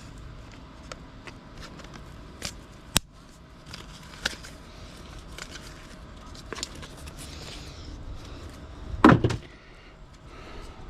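Scrap parts being handled and broken apart by hand: scattered clicks and light metal knocks, one sharp click about three seconds in and a loud thump about nine seconds in.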